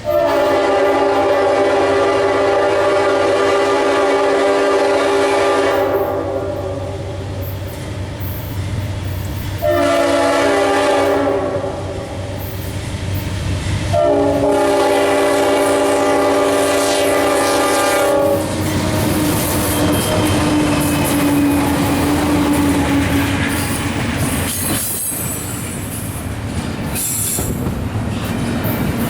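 A CSX diesel locomotive's multi-chime air horn sounding three long blasts. After the last blast the train rumbles past with wheel clatter and a thin wheel squeal.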